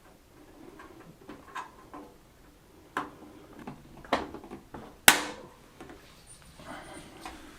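Parts and hand tools being handled on a workbench: a scatter of small clicks and knocks, with one loud ringing metallic clink about five seconds in.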